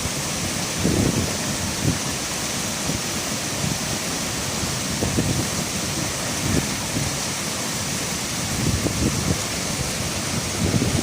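Steady rushing noise of a waterfall's falling water, with wind buffeting the microphone every few seconds.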